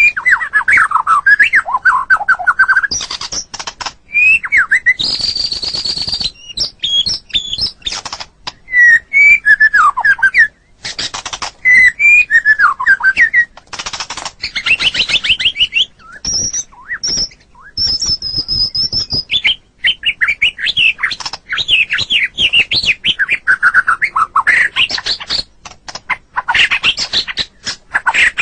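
White-rumped shama singing a long, varied song: whistled phrases and fast runs of notes, mixed with sharp clicks and high thin notes, with brief pauses between phrases.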